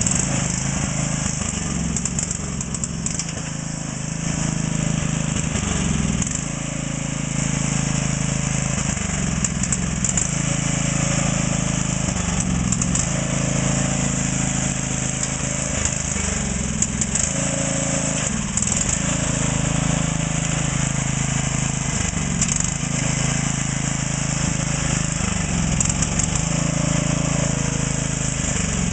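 12 hp Craftsman lawn tractor engine running hard, its speed dipping and recovering every few seconds as the load changes.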